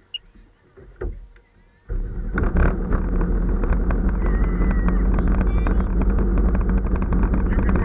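Jet ski engine that comes on loud about two seconds in and then runs steadily, with the noise of water and wind over it. Before that, a few light knocks.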